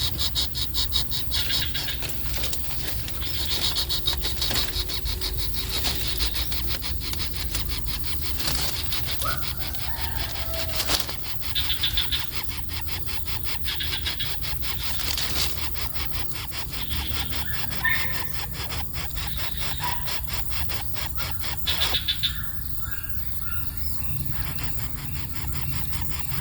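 Small birds chirping in short high calls that recur every few seconds, over a steady low rumble and a fast crackling texture.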